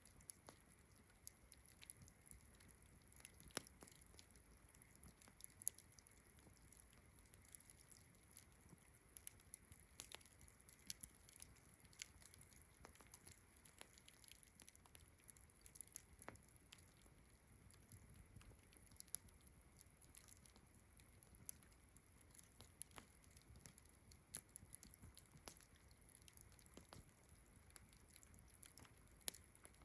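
Campfire crackling faintly, with irregular sharp pops and snaps several times a second, over a steady high-pitched chirring of distant crickets.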